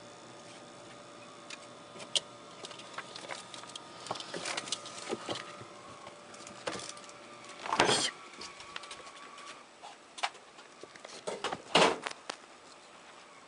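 A ferret rummaging among items in an open refrigerator: scattered light knocks and rustles, with two louder rustles about eight and twelve seconds in.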